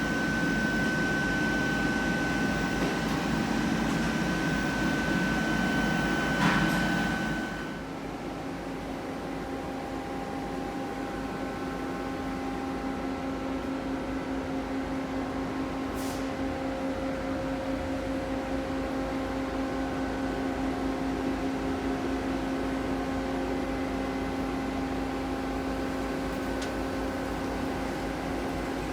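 Okuma Crown 762S CNC turning center running, a steady machine hum with a high whine. About seven seconds in there is a click, and the sound drops to a quieter steady hum that carries on.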